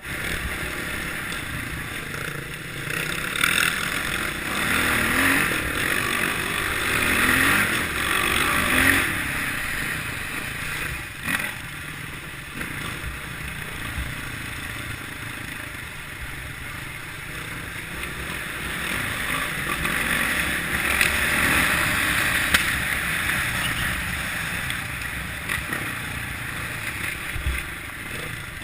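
Kawasaki KLX650R's single-cylinder four-stroke engine running as the bike is ridden off-road. It revs up in several rising sweeps between about four and nine seconds in, then grows louder again around twenty seconds in.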